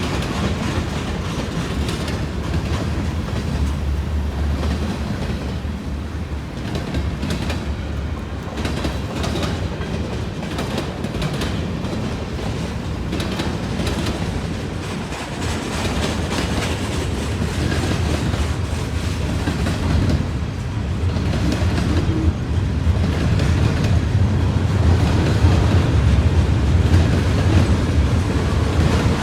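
Freight train cars rolling past, their steel wheels clicking over rail joints in a running series of clacks over a steady rumble that gets louder in the second half.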